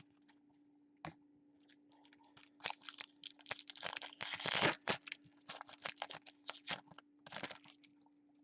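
Foil wrapper of a trading-card pack being torn open and crinkled: a string of short crackling rips, loudest around the middle, over a faint steady hum.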